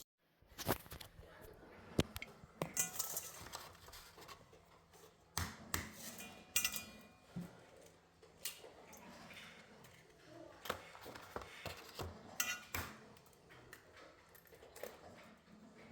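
Dishes and cutlery clinking and knocking: a run of scattered sharp clinks and taps, some ringing briefly.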